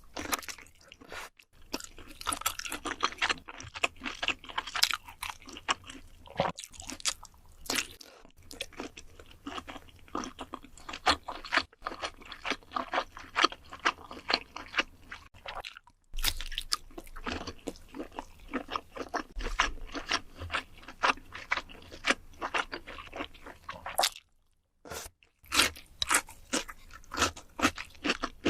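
A person chewing and biting crisp food, with a dense run of irregular crunches broken by a few short pauses.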